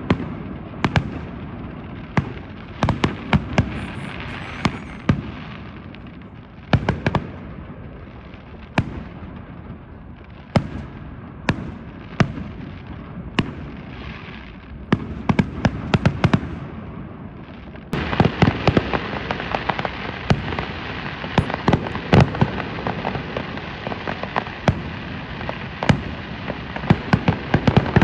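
Large bonfire burning: a steady rushing roar of flames with many sharp, irregular cracks and pops from the burning wood. It gets louder and denser about two-thirds of the way through.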